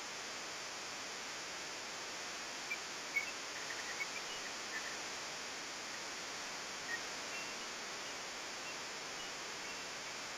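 Steady hiss of outdoor background noise, with a few faint, short high chirps about three to seven seconds in.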